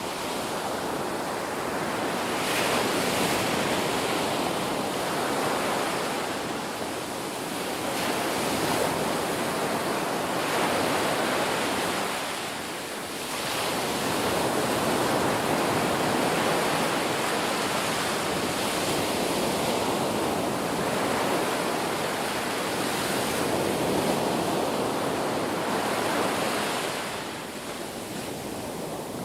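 Ocean waves breaking and washing on the shore in a steady rush of surf that swells and eases every few seconds, with a deeper lull about twelve seconds in and another near the end.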